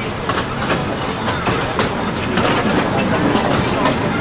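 Narrow-gauge steam train running along the track, heard from a passenger car: a steady rumble with irregular clicks of the wheels over the rails.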